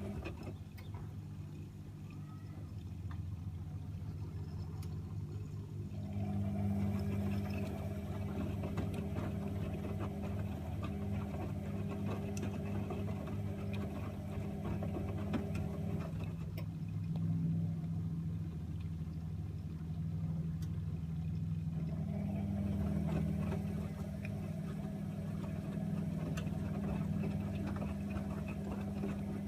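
AEG Öko-Lavamat 76730 front-loading washing machine running: a steady motor hum that shifts in pitch and strength about six seconds in, again at sixteen seconds and again at twenty-two seconds.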